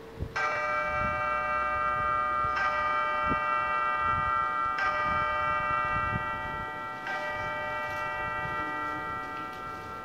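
Bell chimes struck four times, about two seconds apart. Each strike rings on as a cluster of sustained tones that overlap the next.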